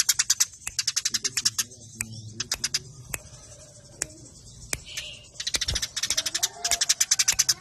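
Eurasian tree sparrows (burung gereja) fighting, giving fast, tightly packed runs of sharp chirps at about ten a second. The runs are dense at the start and again over the last two seconds, with scattered single chirps between.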